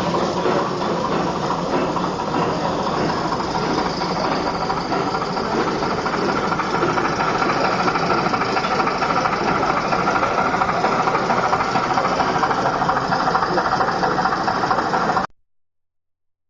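Small steam engine running steadily with a busy mechanical clatter, typical of a live-steam gauge 1 model locomotive. It cuts off abruptly near the end.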